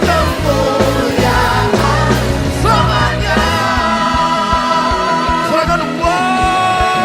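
Congregational worship song: a band with bass and drums accompanying singers, who hold long sustained notes near the end.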